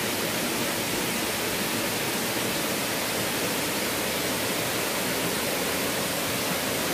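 Steady, even rush of falling water from the Erawan waterfall's cascade.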